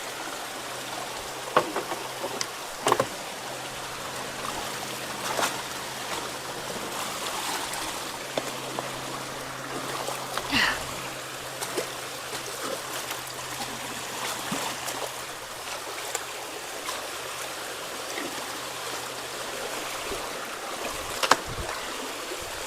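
Steady rush of runoff water flowing through a ditch and culvert, with a few sharp knocks and splashes as branches and debris are pulled from the clog; the loudest comes near the end. A low steady hum runs underneath.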